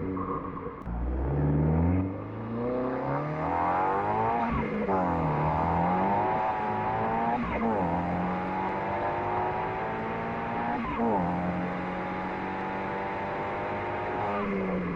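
Turbocharged Honda Civic Type R four-cylinder engine through a Milltek resonated exhaust with the valve open, accelerating hard up through the gears. The pitch climbs and drops sharply at each of three upshifts, then falls away near the end as the throttle eases.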